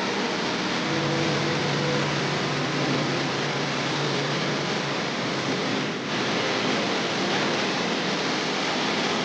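Steady rush of water falling from the Rain Vortex, a very tall indoor waterfall, with a brief dip about six seconds in.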